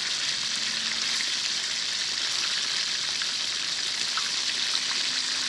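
Chicken pieces deep-frying in hot oil in a discada, a steady sizzle.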